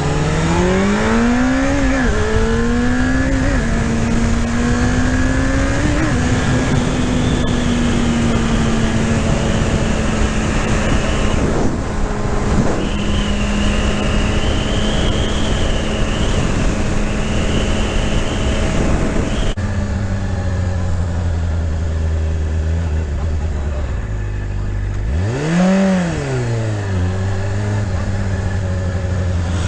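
Motorcycle engine riding along with steady wind noise. It revs up through the gears, with shifts about two and six seconds in, then holds a steady cruise. Near the end the revs rise and fall quickly once.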